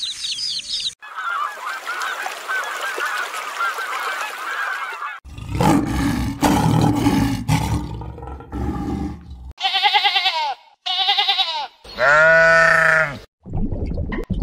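A run of animal sounds. A chick peeps at first, then denser chirping follows. A lion gives low, rough growling grunts. Then come three loud honking calls that bend in pitch, the last one the longest and loudest.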